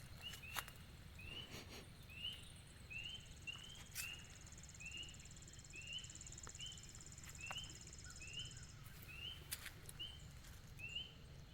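Quiet outdoor garden sounds: a short rising chirp repeated about twice a second, with a high buzzing trill joining about three seconds in and stopping near the end.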